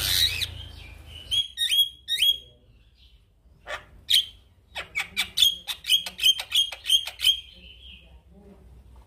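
Male Javan myna singing: a harsh burst, a few sharp hooked chirps, then a quick run of short, loud notes about three a second that stops about eight seconds in.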